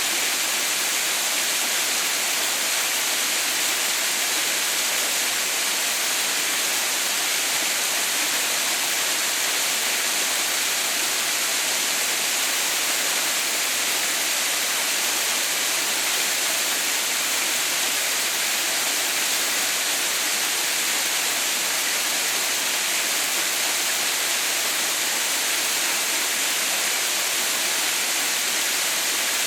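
Haha no Shirataki waterfall, a steady rush of falling water, hissy and high with little low rumble, unchanging throughout.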